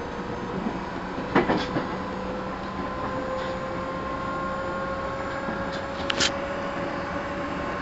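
Interior running sound of a JR 211 series 5000 electric multiple unit motor car: a steady whine that rises slightly in pitch, with a double clack of wheels over a rail joint about a second and a half in and another near the end.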